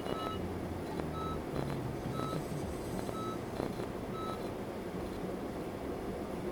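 A vehicle's electronic warning beeper sounding short beeps about once a second, stopping a little over four seconds in, over a low idling rumble.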